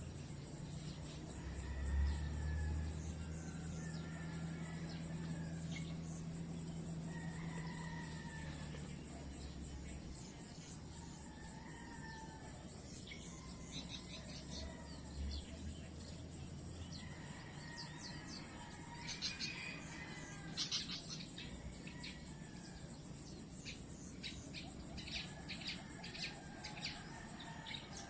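Birds calling and chirping over a steady high-pitched insect drone. Short gliding calls repeat every couple of seconds, and a run of rapid sharp chirps comes in during the second half.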